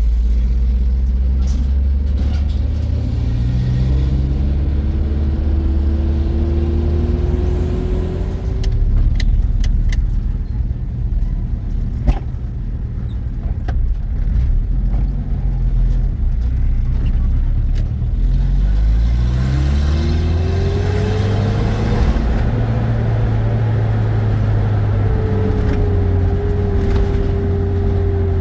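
Car engine running while driving, its pitch rising and levelling off twice as the vehicle accelerates, with a few sharp clicks in the middle.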